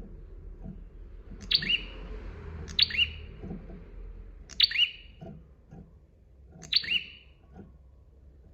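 A prenjak (prinia) calling four times, each call a sharp, loud, high note that drops into a shorter curving lower note, a second or two apart. Faint low taps sound between the calls.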